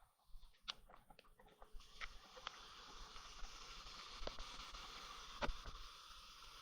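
Faint steady hiss with scattered clicks and taps, from a bicycle being ridden in the rain on wet pavement; one louder knock comes about five and a half seconds in.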